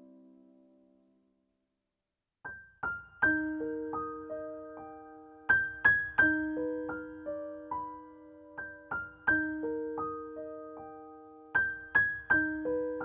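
Background piano music: a chord fades away, and after a short silence a gentle melody of single struck notes begins about two and a half seconds in, repeating its phrase.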